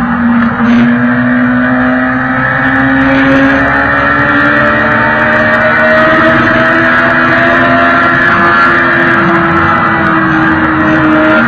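Superbike engine pulling steadily at highway speed, its pitch climbing slowly as the bike accelerates, with wind rush over the microphone.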